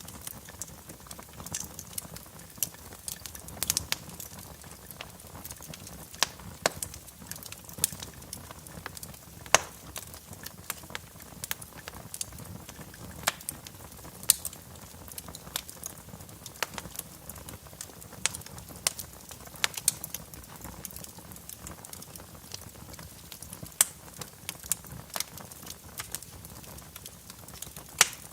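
Wood fire burning in a fireplace, with irregular sharp crackles and pops over a low steady hiss of flames.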